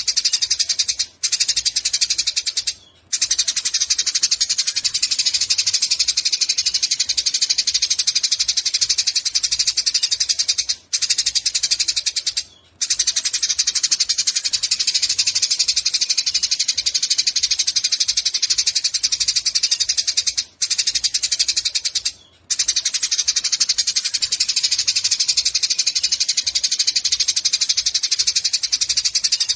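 Eurasian tree sparrow chattering in a fast, unbroken string of high chirps, broken only by a few brief pauses.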